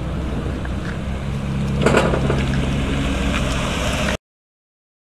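Suzuki Jimny engine running steadily at low speed, its note shifting slightly as it crawls over the course, with a brief louder noise about two seconds in. The sound cuts off suddenly about four seconds in.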